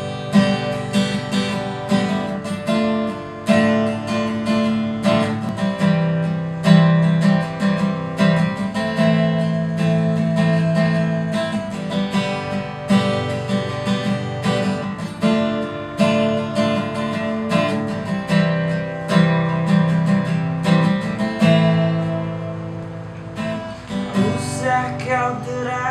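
Acoustic guitar strumming a chord progression in a steady rhythm, as a song's instrumental intro.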